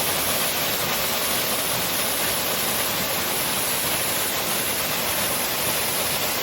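Waterfall on a rainforest creek pouring: a steady, unbroken rush of falling water.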